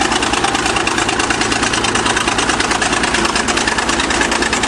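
Diesel engine of a 1953 International TD20 crawler bulldozer running steadily and loud, with a rapid even firing pulse, as the machine drives forward.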